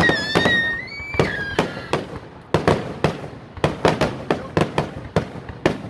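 Fireworks going off in an irregular string of sharp bangs and pops, several a second, with a high wavering whistle over the first second and a half.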